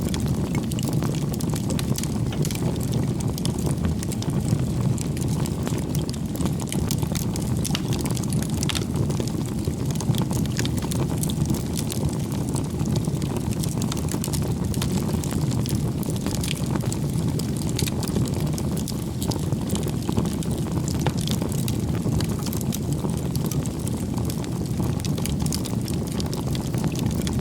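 Firewood burning in a bonfire: a steady low rush of flames with frequent small crackles and pops.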